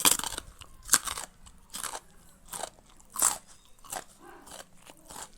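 A person biting and chewing crisp raw fruit and vegetables close to the microphone: a run of about eight wet crunches, each under a second apart.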